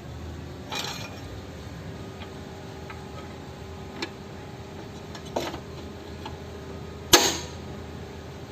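A few sharp metallic clinks and knocks of tools on metal, four in all, the loudest about seven seconds in with a short ring, over a faint steady hum.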